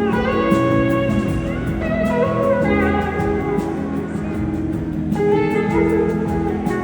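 Small live band playing a slow soul-blues tune without vocals, an electric slide guitar leading with notes that glide and bend over the band's chords.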